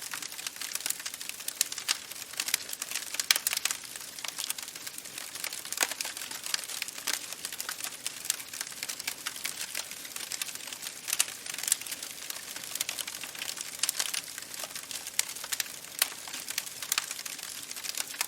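Campfire burning, with dense irregular crackling and snapping over a steady hiss.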